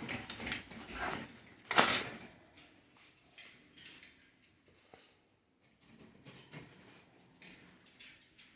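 Bully dogs starting on a bowl of raw food: one loud clatter of a food bowl about two seconds in, then faint scattered clicks and smacks of eating.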